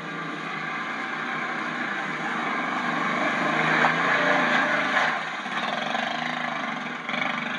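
ATV engine running and revving up, getting louder to a peak about four seconds in, then easing off.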